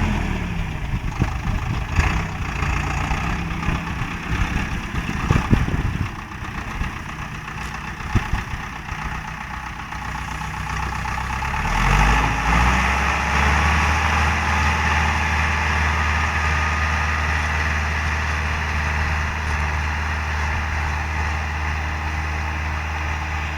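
YTO X904 tractor's diesel engine running. Its pitch drops just after the start, with scattered knocks over the first half. About halfway through the engine note rises, then settles into a steady low hum.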